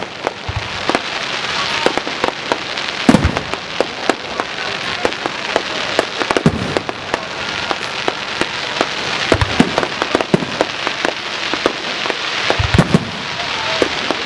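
Fireworks display: a rapid run of sharp bangs from bursting shells over continuous crackling, with a few heavier, deeper booms among them.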